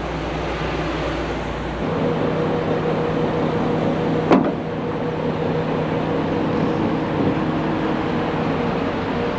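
Large truck engine running steadily. About two seconds in, the low rumble drops away and a steadier pitched hum comes in. A single sharp click or clank sounds about four seconds in.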